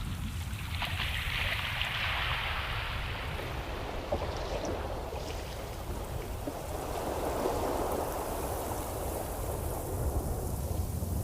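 Ocean surf: waves washing in, two broad swells of rushing water a few seconds apart, over a steady low rumble.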